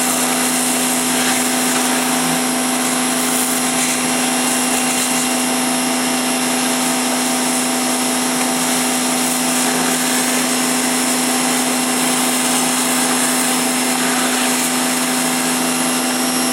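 A 1650 pressure washer running steadily, its high-pressure jet spraying ice out of a refrigerator, with a constant motor hum under the hiss of the spray.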